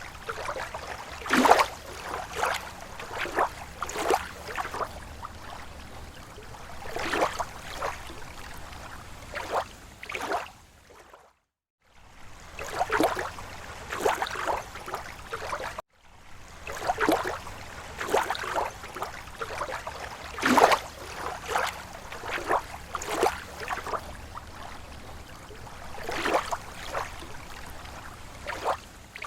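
Small waves lapping at a lake shore: irregular gentle slaps and splashes of water over a low, even wash. The sound drops out to silence for a moment twice near the middle.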